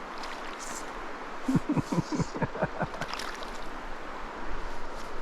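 River current flowing steadily, with a quick run of about eight sharp clicks or knocks starting about a second and a half in.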